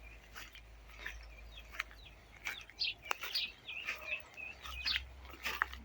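Small birds chirping in short, scattered calls, with a few sharp clicks among them.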